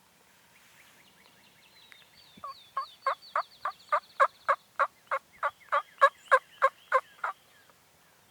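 A long series of turkey yelps, about fifteen notes at roughly three a second, building to their loudest in the middle and stopping abruptly, with faint high chirps from other birds above them.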